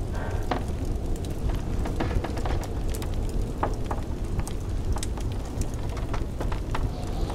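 Wood fire in a fireplace crackling with frequent sharp, irregular pops over a steady low rumble of blizzard wind.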